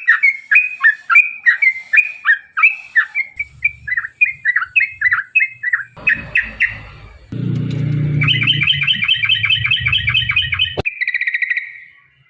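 Trucukan (yellow-vented bulbul) calling in a long chattering series: quick falling chirps at about four a second. Past the middle it breaks into a faster trill over a low rumble, which cuts off sharply, then gives a brief buzzy falling call.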